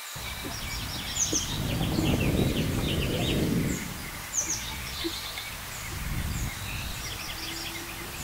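Birds chirping again and again in short calls, over a low rumble that swells between about one and four seconds in.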